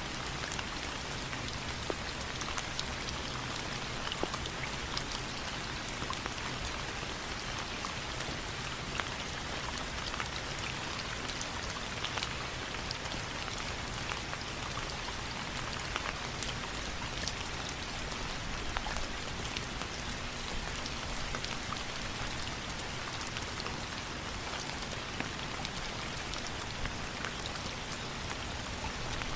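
Steady rain, an even hiss with frequent sharp ticks and pops scattered through it.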